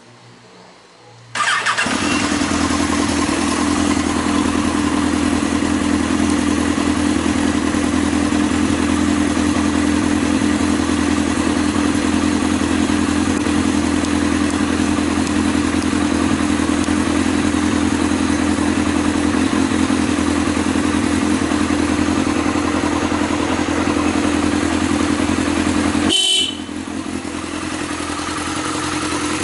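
Yamaha XJR1300's air-cooled inline-four starting through an aftermarket Wyvern exhaust muffler, catching suddenly about a second and a half in and then running at a steady idle. Near the end the sound briefly drops and changes, then builds back.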